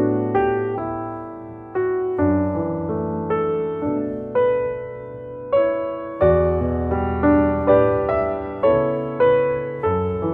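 Background piano music, slow and gentle, with notes and chords struck every half second or so and left to ring out.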